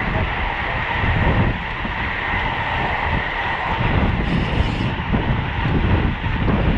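Wind buffeting the microphone of a road bike ridden at race pace, a gusting rumble over a steady rushing hiss of riding noise. A brief sharper hiss comes about four seconds in.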